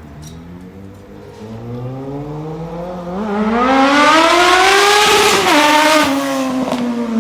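Suzuki Bandit 650N's inline-four engine with a straight-through exhaust, revving up under acceleration: the note climbs steadily and gets loud, drops sharply about five and a half seconds in, then holds steadier.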